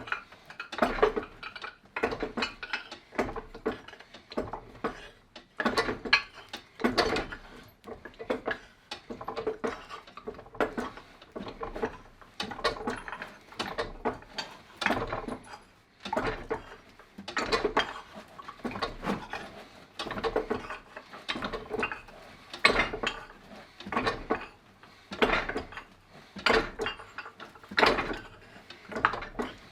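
Norton No.8 fly press worked back and forth, its 4-inch ball-bearing punch striking 3 mm steel plate in a doming block to dish it into a bowl. The strikes are repeated metallic clanks with a short ring, roughly one a second, with mechanical rattling of the press between them.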